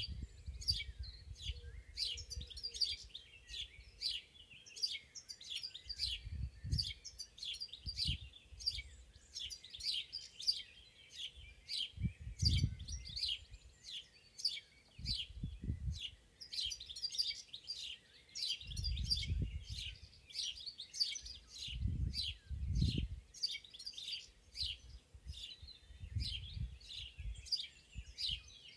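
Several wild songbirds chirping and singing in a dense, continuous chorus of short high calls, with bursts of low rumble every few seconds.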